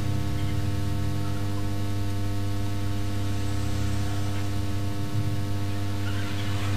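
Steady electrical hum with a light hiss from a bench power supply under load, injecting 1.2 volts into a laptop motherboard to find a short.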